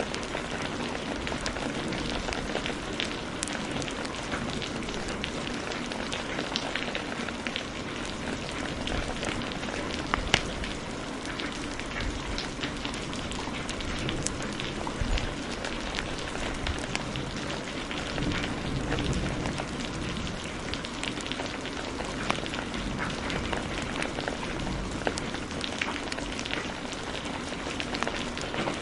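Steady heavy rain with a fireplace crackling, scattered small pops and one sharper pop about ten seconds in.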